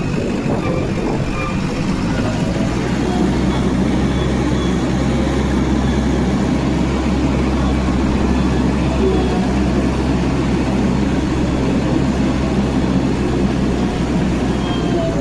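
Heavy diesel engine of earth-moving machinery running steadily, a loud low hum.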